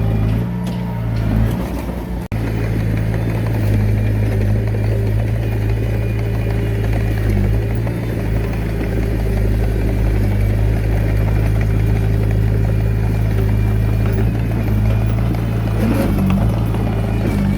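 Komatsu D21A mini bulldozer's diesel engine running steadily, with a brief break in the sound about two seconds in.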